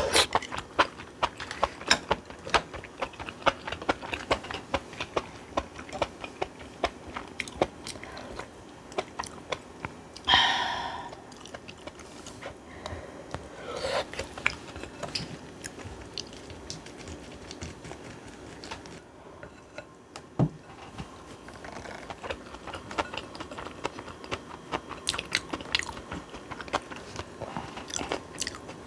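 Close-up eating sounds: wet chewing and crunching of mouthfuls of aged-cucumber bibimbap, with many small mouth clicks and crackles. One louder, brief sound stands out about ten seconds in.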